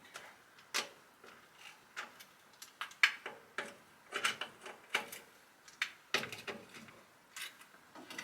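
Scattered sharp clicks and knocks, about fifteen at uneven intervals, from tools and parts being handled during transmission pan work under a pickup; the loudest knock comes about three seconds in.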